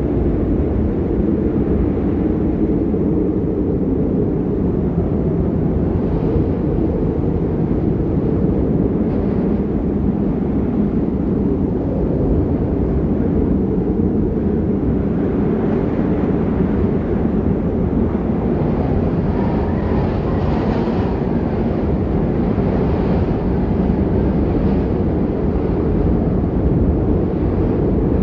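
Storm wind buffeting the microphone: a steady, loud, low rumble with no pitch. A brighter hiss swells for a few seconds about two-thirds of the way in.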